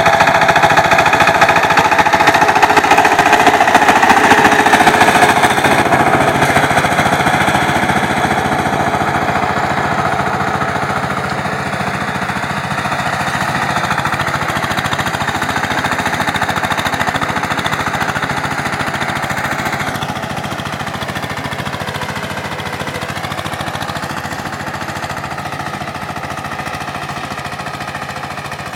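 Power tiller's engine running with a rapid, even knocking beat, loud at first and fading gradually.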